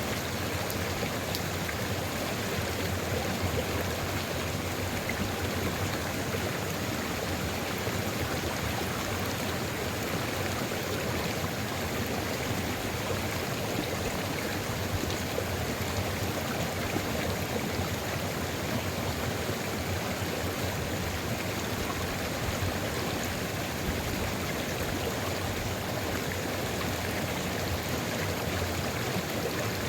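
Sulfur river flowing, an unbroken steady rush of running water.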